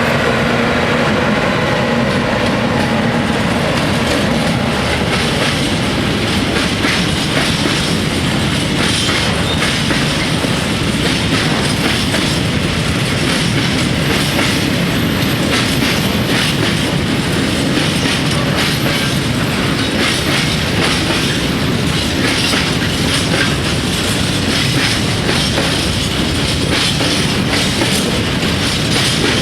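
Freight train's wagons rolling past, a loud steady rumble with the quick clickety-clack of wheels over rail joints.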